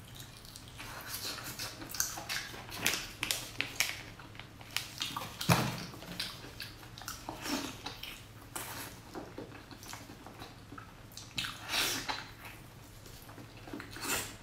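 Close-miked wet eating sounds from soft braised pork offal: sucking, squelching chews and lip smacks in an irregular run of wet clicks, with a louder squelch about halfway through.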